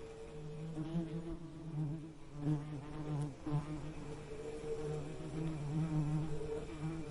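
Bees buzzing: a steady low drone that wavers slightly in pitch and swells and fades every second or so, as insects fly close to the microphone.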